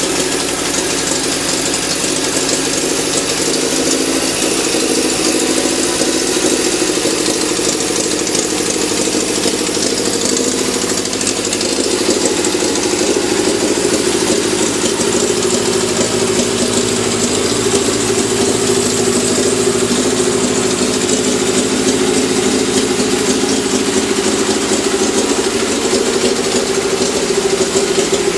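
998 cc BMC A-series four-cylinder engine, fitted with an MG Metro cylinder head, running steadily at idle, its pitch shifting slightly partway through.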